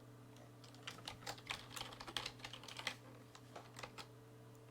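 Typing on a computer keyboard: a quick run of keystrokes lasting about two seconds, then a few scattered key presses, over a faint steady low hum.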